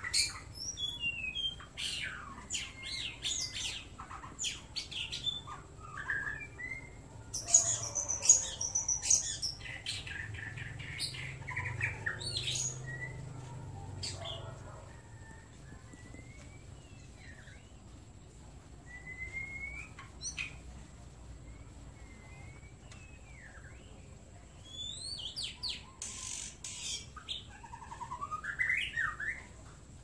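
White-rumped shamas calling: scattered short whistled notes, pitch glides and sharp clicks, with louder bursts of harsh, rasping calls about a quarter of the way through and again near the end.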